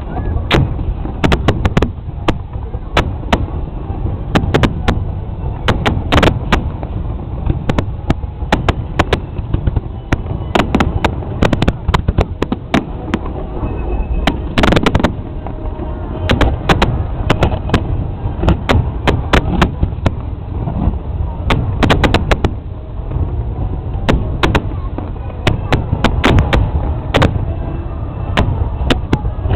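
Fireworks show: shells bursting in a rapid, irregular barrage of sharp bangs over a continuous low rumble.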